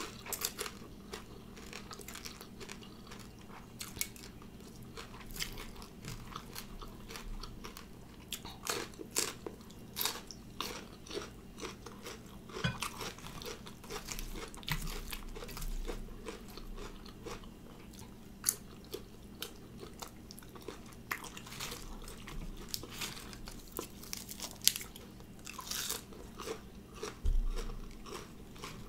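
Close-up eating sounds: chewing with frequent sharp crunches, every second or so, from biting into crisp fried grasshoppers and pork rinds in a spicy noodle salad.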